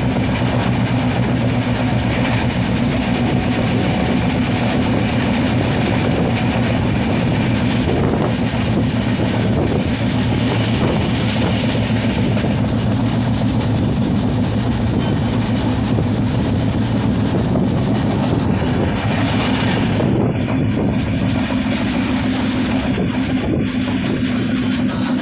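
Express passenger train running along the track, heard from on board: a steady rumble of wheels on rails with a low hum.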